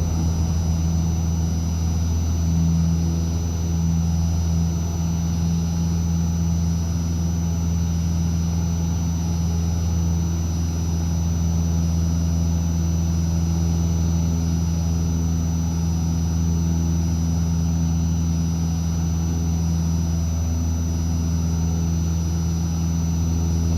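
Cessna 152's four-cylinder Lycoming engine and propeller running at a steady drone, with no change in power.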